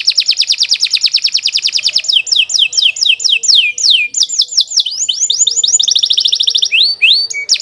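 Domestic canary singing a long unbroken song: fast rolling trills of rapidly repeated notes, a run of slower, falling whistled notes about two seconds in, then fast trills again and a few rising notes near the end.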